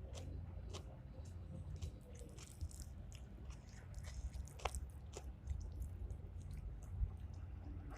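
A person chewing and eating food close to the microphone, with scattered small clicks.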